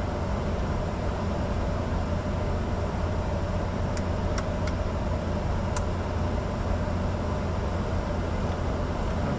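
Steady cockpit noise of a Bombardier Challenger 605 under way, its twin GE CF34 turbofans and airflow making a constant low rumble with a steady hum above it. A few faint clicks sound near the middle.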